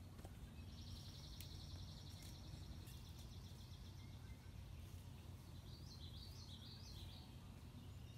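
Faint birdsong over a low steady outdoor rumble: a rapid, even trill lasting about three seconds, then a short warbling phrase near the end, with a few faint clicks between.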